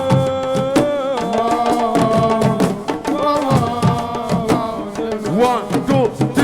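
Senegalese assiko band playing: a sung line of long held notes that slide and waver, over a steady pattern of hand-drum strikes.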